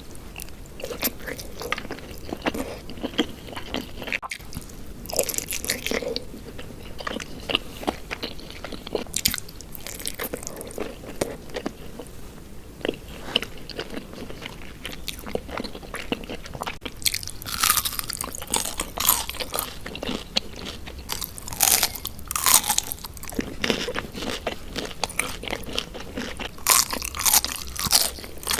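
Close-miked eating of Indian sweets: repeated bites and chewing with crisp crunching and wet clicks, in irregular bursts that come thickest in the second half.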